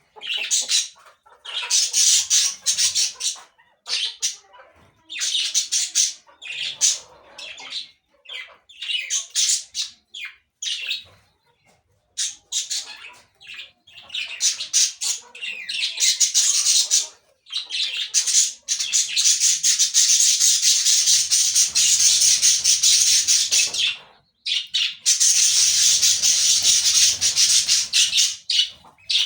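Parakeets chattering and squawking with harsh, high-pitched calls. The calls come in short bursts at first, then run almost without a break through the second half.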